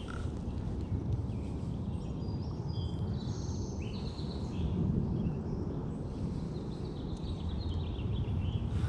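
Birds chirping in short calls over a steady low outdoor rumble.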